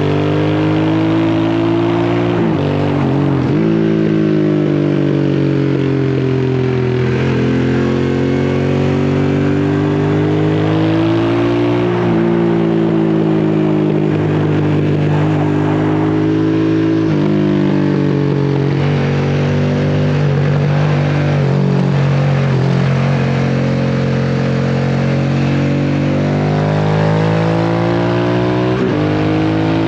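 Exhaust note of a Harley-Davidson Sportster S's Revolution Max 1250T V-twin through a custom slip-on exhaust while riding, the engine pitch repeatedly climbing and falling as the throttle is opened and closed, with a few sharp drops in pitch. Revs are held low on the wet, sandy road.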